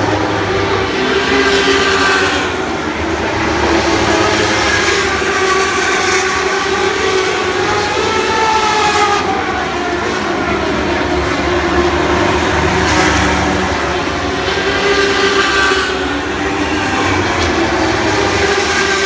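A field of lightning sprint cars racing, their motorcycle engines running at high revs. The engine pitch rises and falls as the cars pass, and the sound swells and fades about every six seconds.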